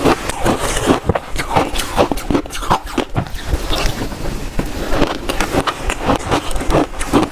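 Shaved ice being bitten and crunched between teeth, a quick uneven run of crunches several times a second.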